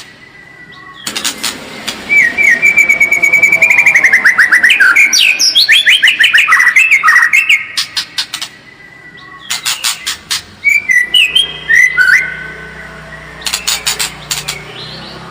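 White-rumped shama singing a varied song: clear whistled notes and fast trills, broken by runs of sharp clicking rattles. It comes in phrases, densest in the first half, with a lull about halfway through and shorter phrases after it.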